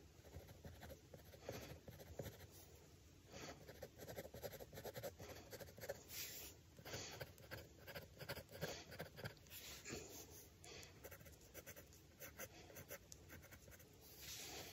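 Faint scratching of a drawing tool on paper, in many short, quick, irregular strokes.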